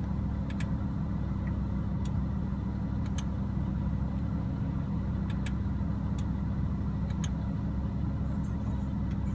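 Lamborghini Huracán LP610-4's V10 engine idling steadily, heard from inside the cabin, with a few faint clicks from the infotainment controls being worked.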